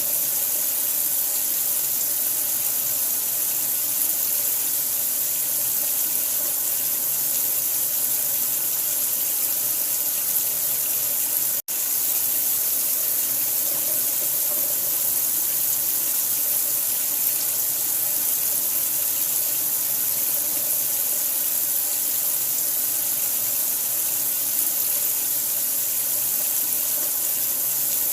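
Steady, unbroken rushing of running water, a hiss weighted toward the high end, with one momentary dropout to silence about twelve seconds in.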